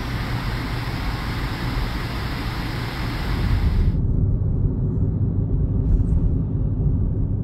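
Storm noise: a steady hiss of strong wind and rain. About four seconds in it changes abruptly to a low, rumbling wind noise buffeting the microphone.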